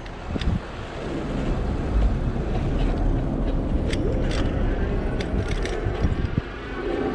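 Street traffic and road noise heard from a moving e-bike, with scattered clicks and rattles. Near the end a steady hum and a faint rising whine come in.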